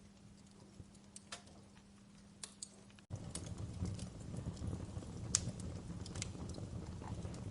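Wood fire crackling in a fireplace, with scattered sharp pops and snaps. About three seconds in, the sound jumps abruptly louder, with a fuller low noise under more frequent crackles.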